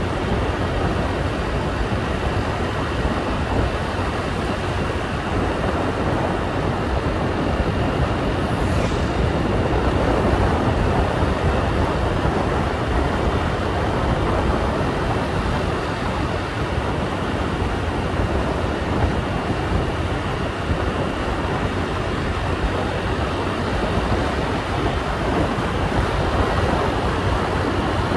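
Steady noise of a motorbike in motion: engine, tyres and wind blending into an even rumble that holds at one level throughout.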